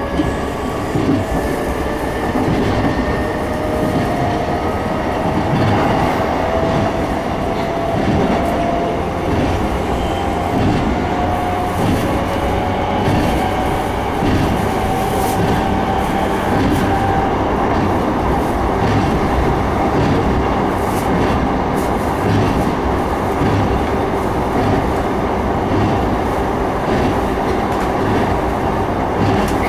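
Running sound of an E233-3000 series electric train: the traction motors whine, rising slowly in pitch as the train accelerates and then levelling off, over a continuous rumble and the clack of wheels over rail joints.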